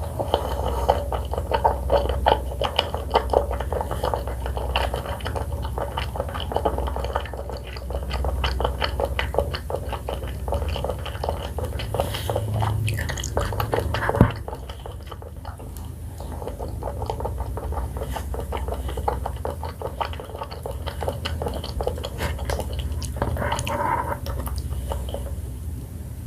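Close-miked chewing and wet mouth sounds of someone eating a jelly-ball vanilla ice cream, with many small sticky clicks. One sharp click about 14 seconds in is the loudest, and the eating goes quieter for several seconds after it.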